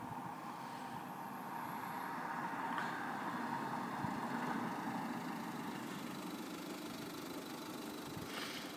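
A vehicle engine running steadily, slightly louder about three seconds in.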